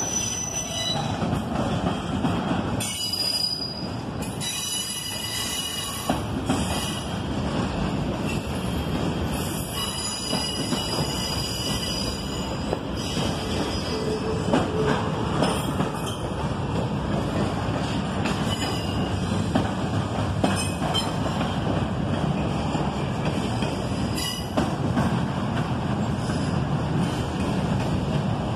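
Double-stack intermodal freight train rolling past, the container well cars giving a steady rumble of steel wheels on rail. High-pitched wheel squeal comes and goes over it.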